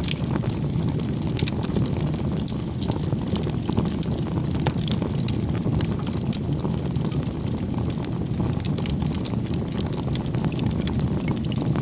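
Crackling bonfire: a steady low rush of flame with frequent, irregular pops and snaps of burning wood.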